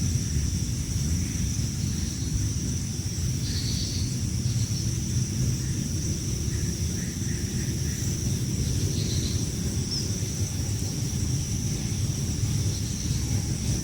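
A steady low rumble runs throughout under a constant high-pitched hiss. A few faint bird chirps come about three to four seconds in and near nine seconds, with a quick run of short chirps around seven seconds.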